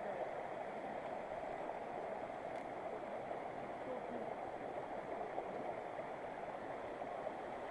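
Steady rushing of a mountain stream running over rocks.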